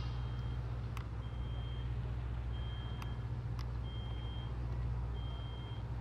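Vehicle reversing alarm beeping five times, each beep about half a second long and a little over a second apart, over a steady low hum.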